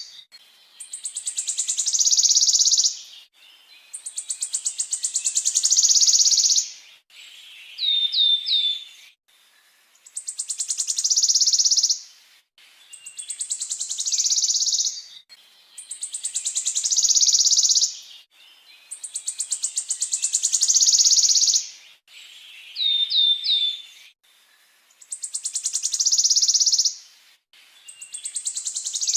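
A songbird repeating a fast rolling trill over and over, each phrase two to three seconds long and growing louder as it goes, with a short run of three quick rising whistles twice.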